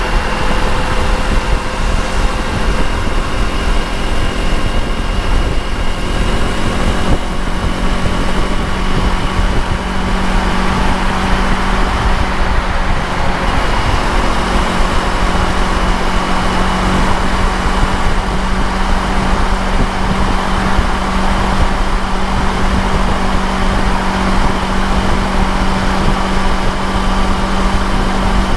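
Motorcycle engine running at steady cruising revs, with heavy wind and road noise over it.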